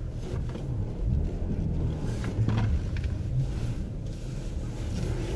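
Car engine running and revving under load from inside the cabin while backing through deep snow, its pitch rising and falling; the driver fears the car may be stuck.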